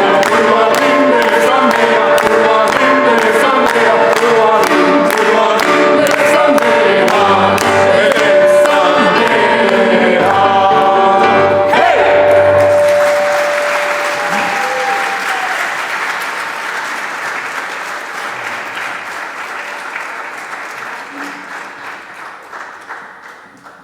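Vocal ensemble singing in harmony over a steady percussive beat of about two strikes a second, closing on a held note about thirteen seconds in. Audience applause follows and gradually fades away.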